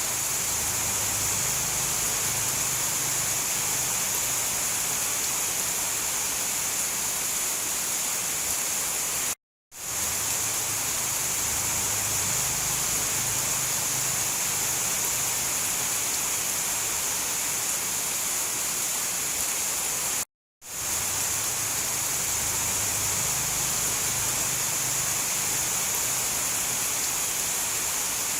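Steady downpour of rainforest rain as a dense, even hiss. It cuts out to silence for a moment twice, about a third of the way in and again about two-thirds in, fading back in each time: the seams of a looped recording.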